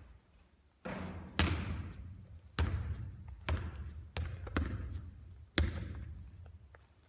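Basketball bouncing during shooting practice: about seven sharp, irregularly spaced thuds, each trailing off in a ringing echo.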